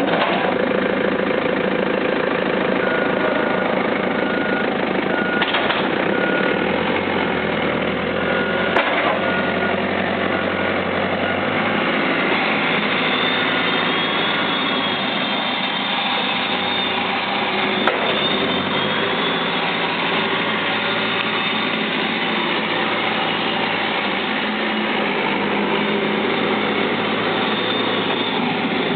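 Caterpillar 432D backhoe loader's diesel engine running steadily, with two brief knocks, the first about nine seconds in and the second about nine seconds later.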